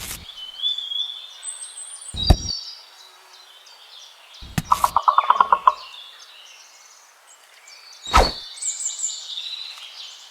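Small birds chirping throughout, broken by a few sharp knocks and a quick run of about ten ticks around five seconds in.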